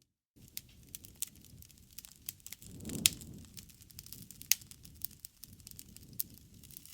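Fireplace fire crackling, with scattered sharp pops and a brief low rush of flame about three seconds in, topped by the loudest pop. It starts after a split second of silence.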